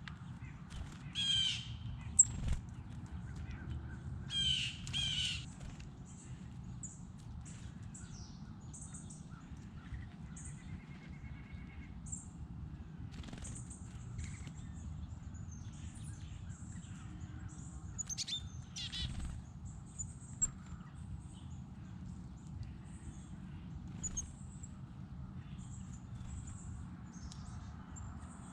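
Wild birds calling: harsh, cawing calls stand out three times, near the start, around four to five seconds in and again past the middle, over many short, high chirps from smaller birds. Two sharp clicks are heard, one early and one past the middle.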